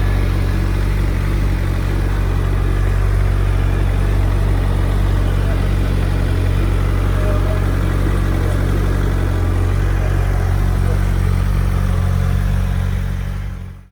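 2023 Suzuki Hayabusa's 1340 cc inline-four engine idling steadily, fading out near the end.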